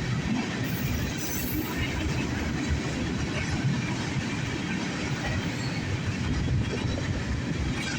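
Freight train tank cars rolling past, a steady rumble of steel wheels on the rails.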